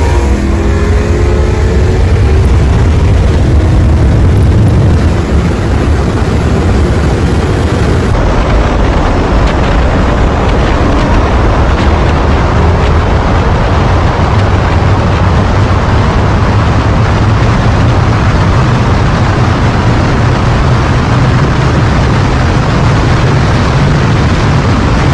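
A vehicle accelerating hard at full throttle during a race, its engine note rising in the first few seconds. After that it is mostly a loud, steady rush of wind and road noise at high speed.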